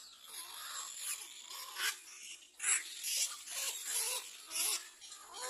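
Birds calling: a rapid, irregular series of short, high-pitched calls.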